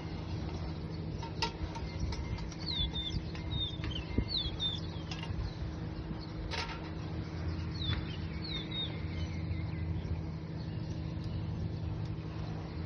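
Small birds calling in short, repeated downward-sliding chirps in small clusters, over a steady low rumble and hum of outdoor background noise, with a couple of faint clicks.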